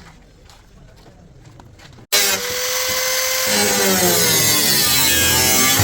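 A few faint clicks and knocks, then a sudden loud electric power tool running, its motor whine dipping and rising in pitch as it works.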